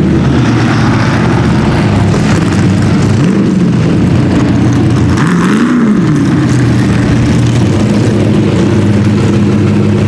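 Ultra4 race car engine running loud, its revs rising and falling back twice a few seconds apart.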